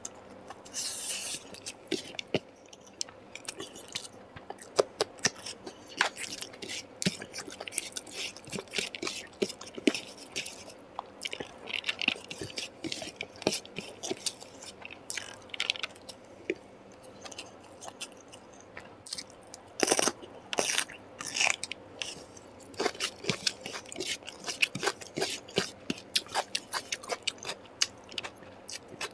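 Close-up eating sounds: a person chewing and biting, with irregular short crunching clicks.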